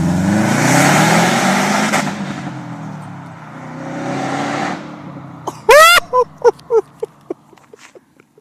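2008 Subaru WRX's turbocharged flat-four, run with no mufflers, revved up hard and let fall, then blipped again a few seconds in. Then a dog barks several times in quick succession, louder than the engine.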